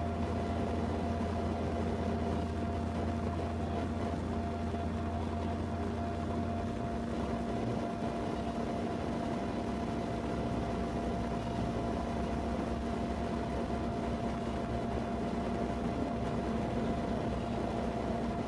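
Steady hum of an idling vehicle, with a constant drone and even background noise. The low rumble changes about seven seconds in.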